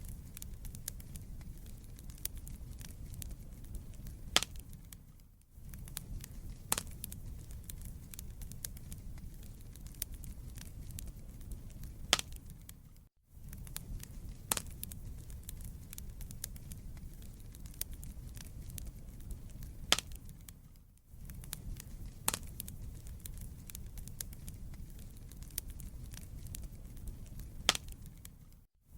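Wood fire burning in a fireplace: a steady low rumble with scattered sharp crackles and pops of burning logs. It drops to near silence briefly about every eight seconds.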